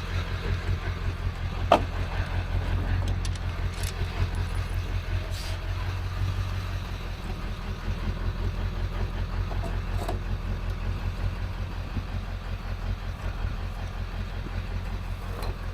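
Engine idling steadily with a fast low pulse, and a single sharp metallic clank a couple of seconds in.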